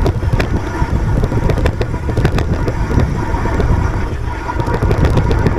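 Wind buffeting the microphone on a moving bicycle, with scattered sharp clicks and rattles.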